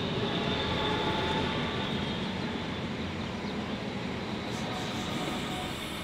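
Electric train passing on the line, a steady rumble of wheels on rail with a faint high whine, loudest a second or so in and easing off near the end.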